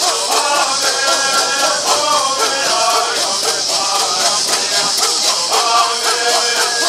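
Southern California bird song: a group of men singing in unison, keeping a steady rhythm with the shaking of gourd rattles.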